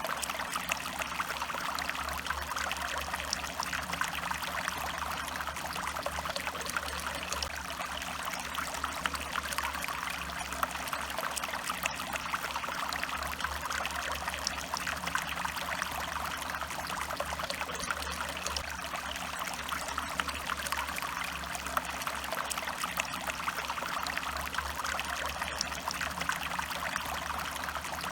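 A small stream of water running steadily, a continuous babbling and trickling.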